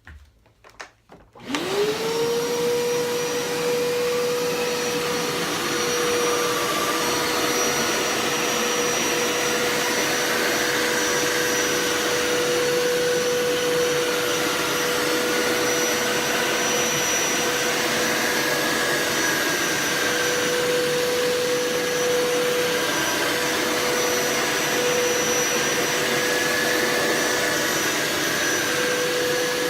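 Hoover Power Scrub Elite carpet cleaner switched on: after a couple of faint clicks its motor spins up quickly, about a second and a half in, and then runs with a steady high whine.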